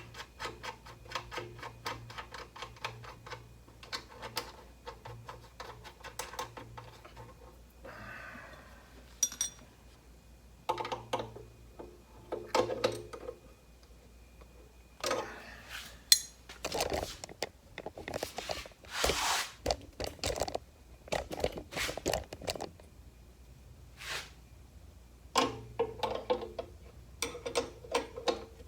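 Hand-tool and small metal-parts noise from fitting nuts on a motorcycle fuel tank's mounts: rapid clicking, then scattered clinks and scraping as the nuts are double-nutted and tightened. A faint low hum runs underneath.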